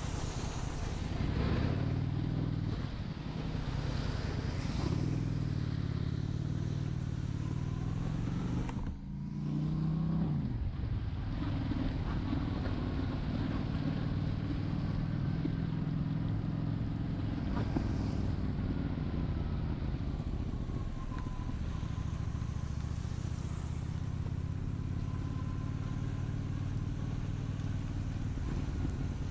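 Honda Shadow 750 V-twin engine running under way, heard from the rider's seat along with wind and road noise. About nine seconds in the engine note drops briefly, then climbs again as the throttle opens.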